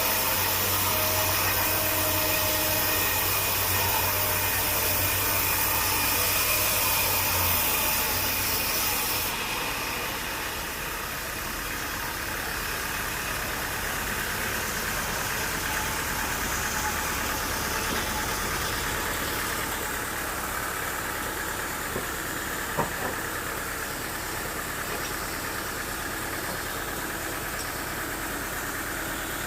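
A sawmill's engine running steadily. For the first several seconds a loud hissing, rushing noise lies over it and then stops. A couple of sharp knocks come about three-quarters of the way through.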